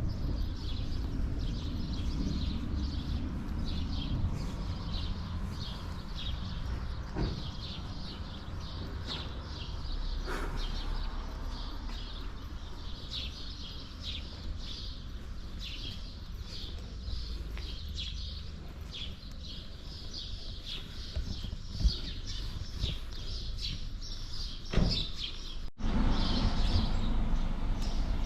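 Small birds chirping in short repeated calls over a steady low outdoor rumble, with a few soft knocks. Near the end the background cuts off abruptly and comes back slightly louder.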